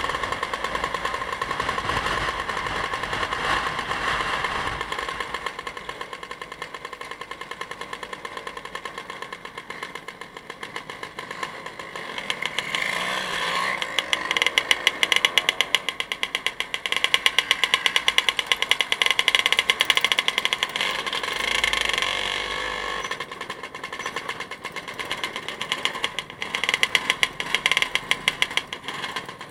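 Motorcycle engine running on the move, with wind noise. Its rapid firing pulses grow loud for several seconds from about halfway through, and again briefly near the end, as it pulls harder.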